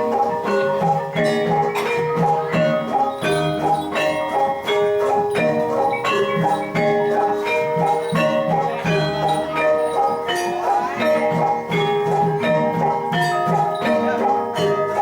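Javanese gamelan music for jathilan: bronze keyed metallophones and gong-chimes struck in a fast, steady run of ringing notes, with regular percussive strokes underneath.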